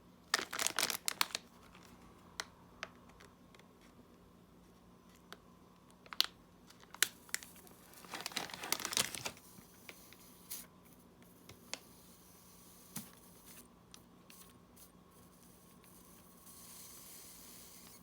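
Scattered clicks and crinkly rustles from small parts and hand tools being handled at a workbench, with a busier crackling stretch about eight seconds in and a faint hiss near the end.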